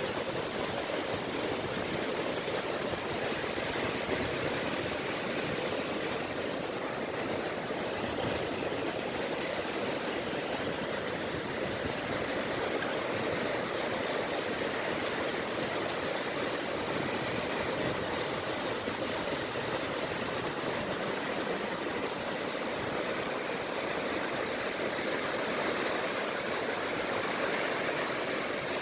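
Small wavelets (sazanami) lapping on a beach of the Seto Inland Sea, a steady wash of water without distinct breaking surges.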